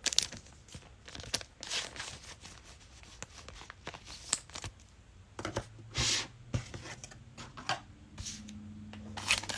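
Trading-card pack wrappers being torn and crinkled while cards are handled: scattered rustles and short crinkly bursts, the loudest about six seconds in.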